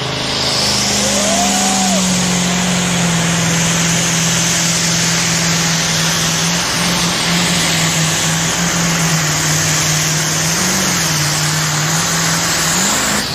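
Modified pulling tractor's engines running flat out during a pull, a loud steady high-revving howl whose pitch settles slightly lower after about two seconds and wavers a little near the end before the sound falls away.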